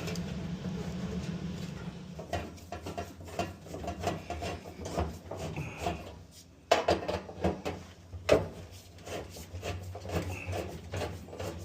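Irregular metal clicks, clinks and knocks as screws and sheet-metal parts of a Maytag dryer's heating-element assembly are handled and fitted back, with two sharper, louder knocks past the middle.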